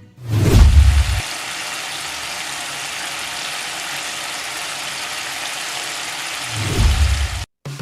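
Kababs frying in hot oil, a steady sizzle, with a low rumble near the start and again near the end.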